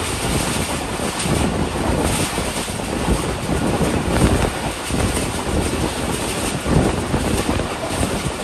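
A passenger train running at speed, heard from on board: a steady rumble of wheels on the track mixed with wind rushing over the microphone.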